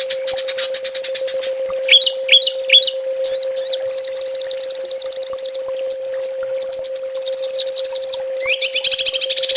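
Small songbirds singing rapid, high trills and sharp chirps in quick series, the fast 'tembakan' song used as masteran for training cage birds. A steady low hum runs underneath.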